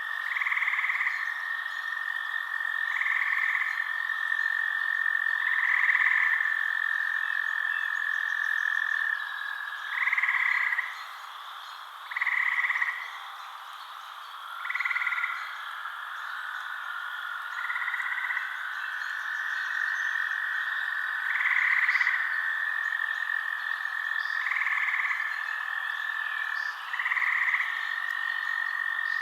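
Frogs calling at night: short croaking calls repeat every two to three seconds over a steady high-pitched trill that breaks off and resumes a few times.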